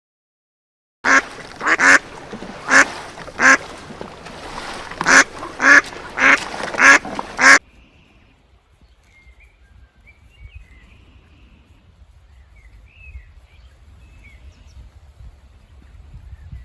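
A farm bird calling loudly about ten times in six seconds, short, nasal calls, then they stop and faint chirping of small birds is left over a low rumble.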